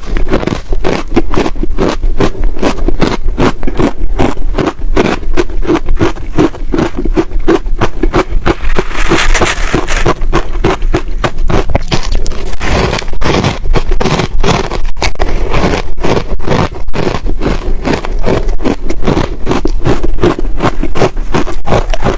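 Crunchy ice being chewed close to the microphone, a rapid string of crisp crunches and cracks, several a second and without a break.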